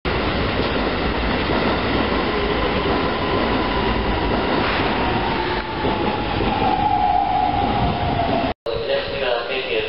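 Keikyu electric train running along the platform track, a steady rumble with a whine that slowly falls in pitch. The sound cuts out for an instant near the end.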